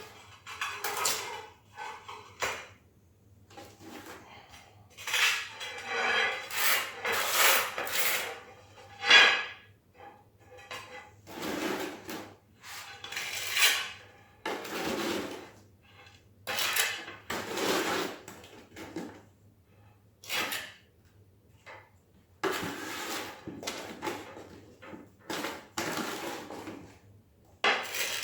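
Metal hand scraper spreading and notching tile adhesive: a run of irregular scraping strokes and clinks against the hard surface, each lasting about a second, with short pauses between.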